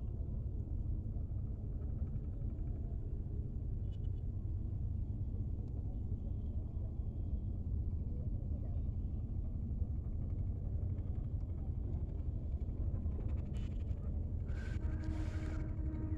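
Steady low rumble, with faint voices near the end.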